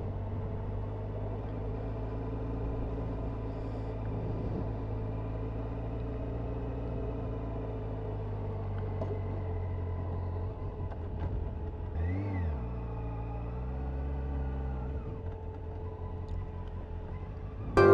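Honda CBF motorcycle engine idling steadily, with a quick throttle blip about twelve seconds in that rises and falls in pitch, and a slightly different engine note for a few seconds after.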